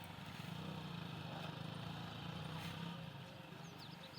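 Steady low hum of an engine running, with a few faint, short, high bird chirps near the end.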